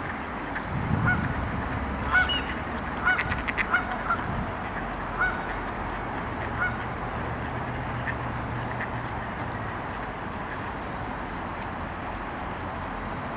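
Waterfowl calling: a run of short, pitched calls in quick succession that thins out and stops in the first half. A steady low hum runs underneath in the second half.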